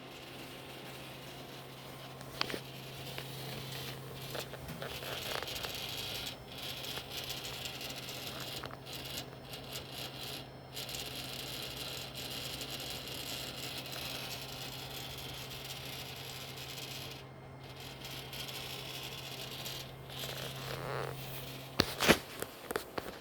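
CW-5200 water chiller running with a steady low hum and a rattling noise over it. A few sharp clicks cut through, one a couple of seconds in and several near the end.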